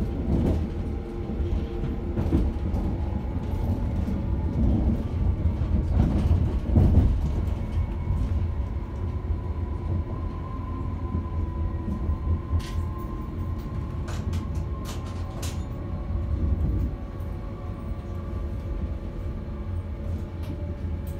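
Passenger train running on the rails, heard from inside the carriage: a steady low rumble, with a few sharp clicks about halfway through as the wheels pass over rail joints and points, and a faint steady whine in the middle.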